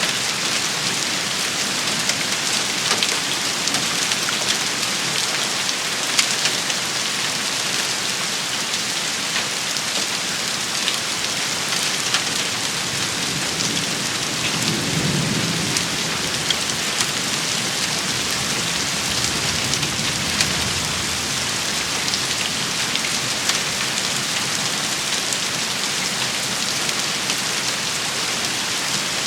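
Steady rain shower, drops pattering and ticking on a hard surface. A low rumble of distant thunder comes about halfway through.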